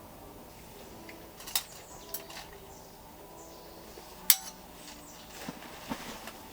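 Tableware clinking: a few sharp, separate clinks, the loudest about four seconds in, with smaller knocks near the end.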